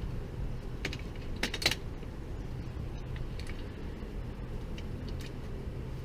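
Small, sharp metallic clicks and taps from hand tools and small metal parts being handled, in a few short clusters; the loudest comes a little after a second in. A steady low hum sits under them.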